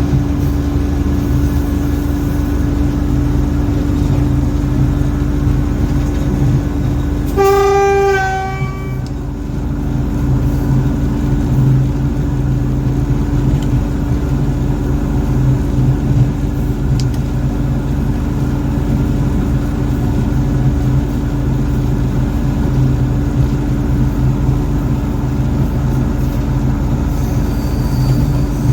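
Indian-made diesel locomotive running steadily, a low engine drone with the rumble of the train, and one horn blast of about a second and a half, about seven seconds in.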